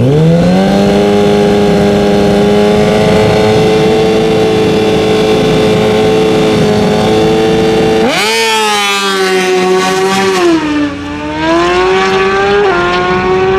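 Drag-racing motorcycle engine revs up and holds at a steady high rpm for about eight seconds. About eight seconds in it surges, and the pitch climbs, dips and rises again, with sudden pitch steps near the end.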